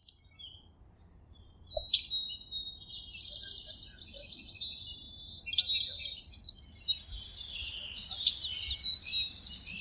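Several birds chirping and singing together, with quick trills and falling whistles. The calls start sparse and become busy about two seconds in.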